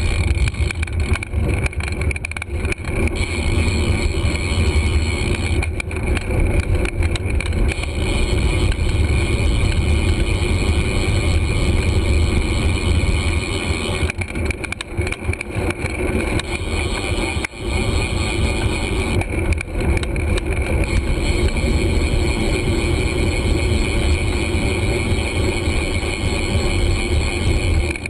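Steady wind rumble and road noise on a GoPro's microphone while riding a bicycle, with one brief drop in level about two-thirds of the way through.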